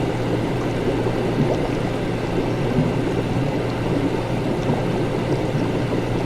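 Continuous laboratory ambience: liquid bubbling and gurgling over a steady low machine hum.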